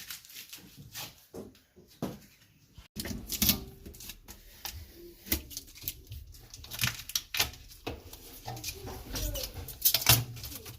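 Irregular clicks and knocks of things being handled, busier from about three seconds in.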